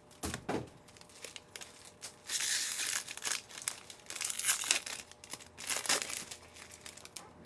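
Foil trading-card pack wrapper being torn open and crinkled, in three or so crackly bursts with a few light clicks near the start.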